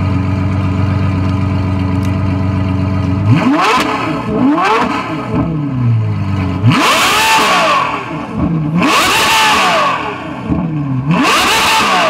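Supercar engine with a modified exhaust idling steadily, then revved sharply about five times from a little past three seconds in, each rev climbing in pitch and dropping back, the later ones higher and longer.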